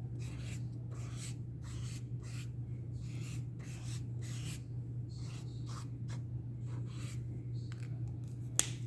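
Acrylic paint marker nib scratching on mixed media paper in short repeated strokes, about two to three a second, with a sharp click near the end. A steady low hum runs underneath.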